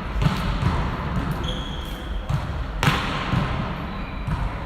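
Volleyball play in a gym: a ball thumping repeatedly, with one sharp smack of a hit near the middle, over a steady background of voices.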